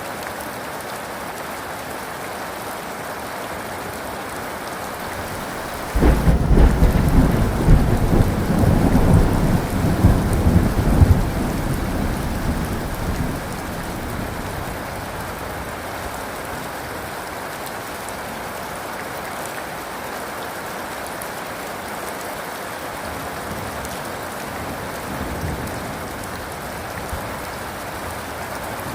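Steady heavy rain, with a thunderclap breaking out suddenly about six seconds in and rolling as a deep rumble for several seconds before fading away, leaving the rain alone.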